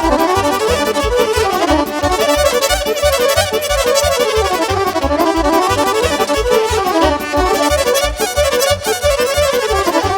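Live Romanian party band playing an instrumental break between sung verses: an accordion carries a fast, winding dance melody over a steady bass-and-drum beat of about four beats a second.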